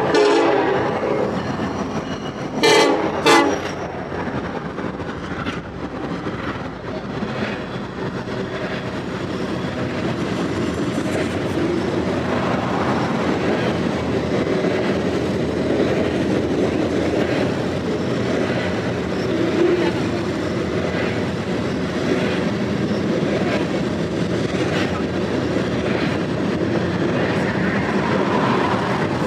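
A Union Pacific diesel freight train passing close by. A locomotive horn blast ends just after the start, and two short blasts follow about three seconds in. The horn then gives way to the steady rumble of the freight cars rolling past, with a rhythmic clicking of the wheels on the rails.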